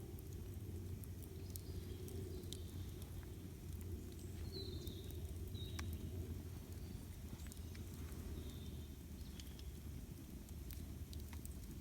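Campfire burning with scattered sharp crackles and pops over a low steady rumble, with a few short bird chirps now and then.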